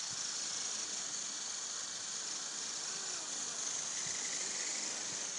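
Small model helicopter in flight, its electric motor and rotor blades giving a steady, high-pitched whirring hiss.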